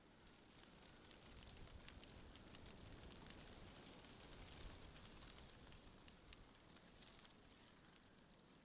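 Faint wind, swelling a little from about a second in and easing again near the end, with scattered small crackling ticks.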